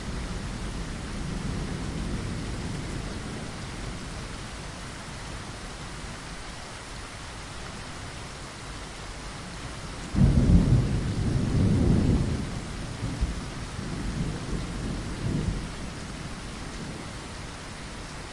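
Steady rain against a window, with a rumble of thunder that breaks out suddenly about ten seconds in and rolls on in waves for several seconds before dying away.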